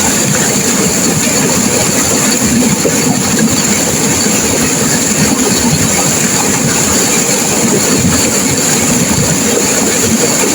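Turbulent river water rushing and crashing, a loud, steady noise without breaks.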